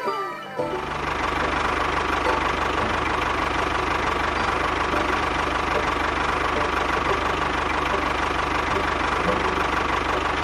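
Tractor engine sound running steadily at an even idle-like chug, starting about half a second in. The tail of a falling sparkle chime comes just before it.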